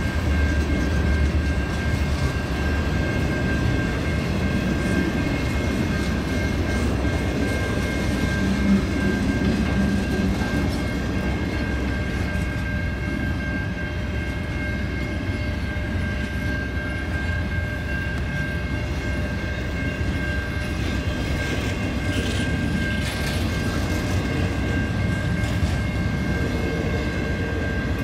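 Double-stack intermodal freight train cars rolling past on the rails: a steady rumble with wheel clickety-clack, and a steady high whine running over it.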